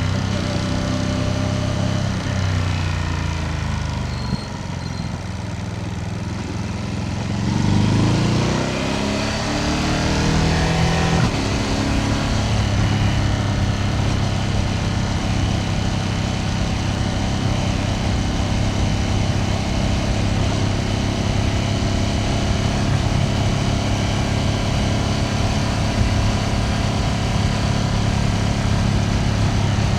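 Ducati Panigale V2S's V-twin engine heard from the rider's seat. Over the first few seconds the revs fall as the bike slows. About eight seconds in it revs up, with a rising note and a break near eleven seconds, then it runs at a steady cruising note.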